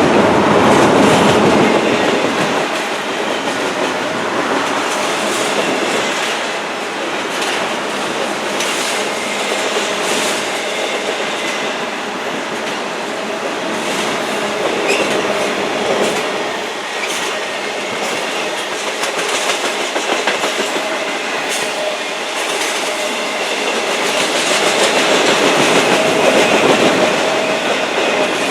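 A train's cars rolling steadily past, wheels clicking over the rail joints.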